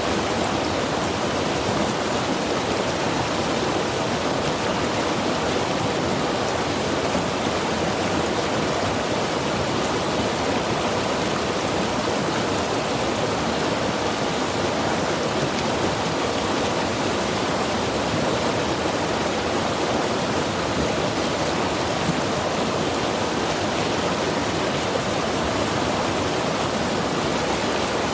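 Mountain river rushing over rocks, a steady, even roar of running water with no change.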